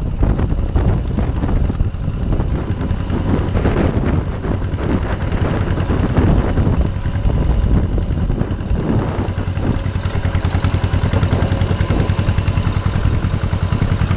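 Small farm tractor's engine running as the tractor is driven along in third gear: a steady low hum under a rapid, even chatter of firing pulses.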